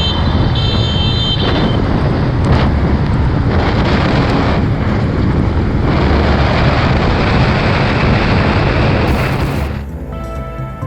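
Motorcycle riding at speed, its engine and road noise mixed with heavy wind rushing over the camera's microphone; a few high steady tones sound in the first second or so. Music takes over near the end.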